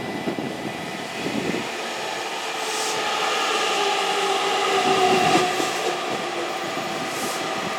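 Electric train running at a station platform. Its motors give a whine of several tones that slowly fall in pitch as the train grows louder.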